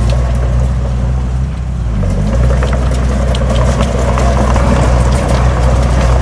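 Heavy diesel engine of earthmoving machinery running steadily, with a brief dip in engine note about two seconds in before it picks up again. Scattered clicks and rattles run over the engine.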